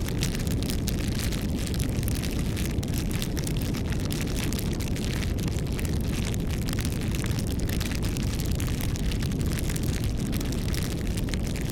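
Wood fire burning: a steady low rush under dense, continuous small crackles and pops.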